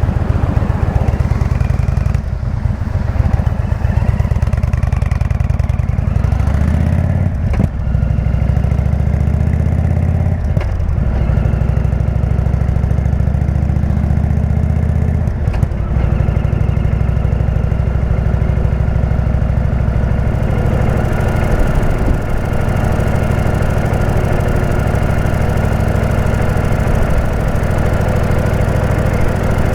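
Indian V-twin motorcycle with a Jekill & Hyde exhaust under way. The revs rise twice in the first half, with short breaks like gear changes, then the engine runs steadily.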